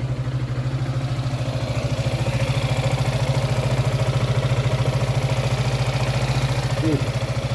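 Yamaha X-max 300 scooter's single-cylinder four-stroke engine idling with an even, steady pulse. It runs smoothly, with the earlier noise gone, after a loose bolt inside the engine was tightened back in with thread lock.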